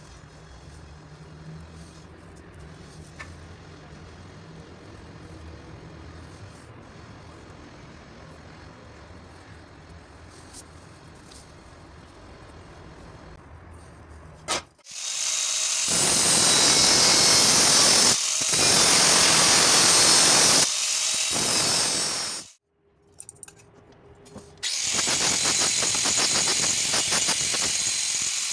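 Metalworking on steel pipe. After a quiet stretch of faint low hum, a loud harsh hiss of cutting or welding starts about halfway in. It breaks off for about two seconds, then resumes with a fine crackle.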